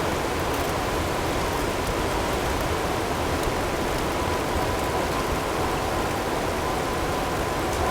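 Blizzard ambience: a steady rush of wind-driven snow and hail, with a few faint ticks and a faint steady tone running through it.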